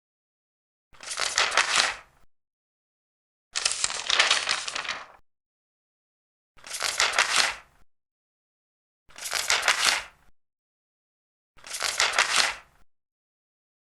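Large paper pages being turned one after another: five separate rustling, crackling page turns, each lasting about a second and a half, with dead silence between them.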